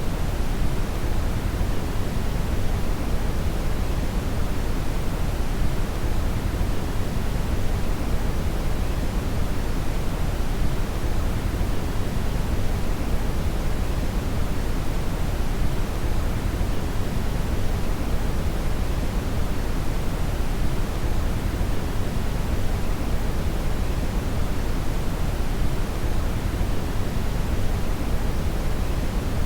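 Synthetic brown (Brownian, red) noise: a steady, deep hiss with most of its weight in the lows, unchanging throughout.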